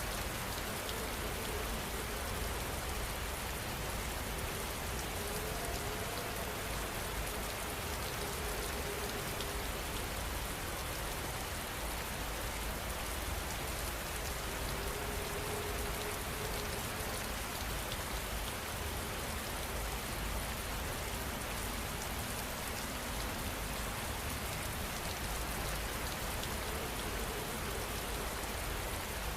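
Steady heavy rain falling and pattering on surfaces, an even, unbroken hiss with no change in strength.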